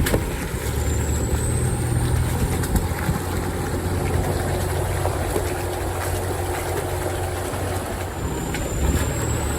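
Off-road vehicle's engine running at a steady, low pitch as it drives along a trail, with a few light knocks.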